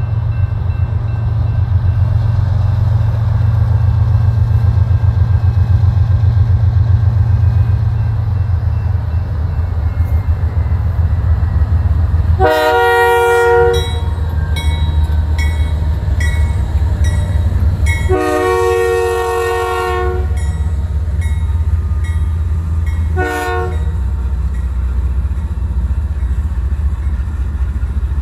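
Freight train's diesel locomotives running as they approach and pass, their low engine rumble steady underneath. The locomotive horn sounds a multi-note chord in two long blasts and then one short one, the long-long-short opening of a grade-crossing signal.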